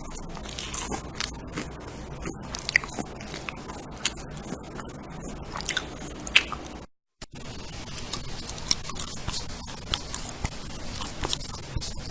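Someone chewing and biting close to the microphone: irregular crunchy, clicking mouth noises, broken by a brief silent cut about seven seconds in.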